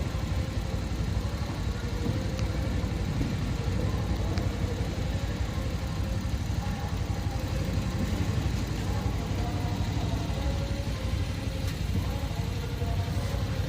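Passenger train rolling into a station behind a WAP-4 electric locomotive: a steady low rumble of wheels and running gear with a few faint clicks.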